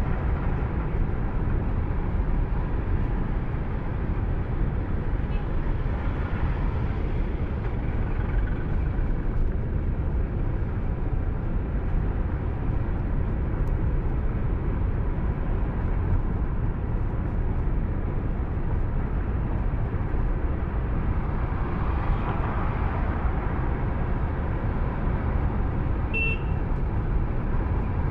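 Steady road and engine noise of a car on the move, as picked up by its dashcam, with a short vehicle horn toot near the end.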